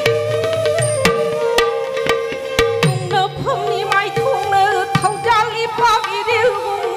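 Live Manipuri classical dance music: hand-drum strokes under a held note, with voice, flute and violin. From about three seconds in, a wavering, ornamented melody line comes to the fore.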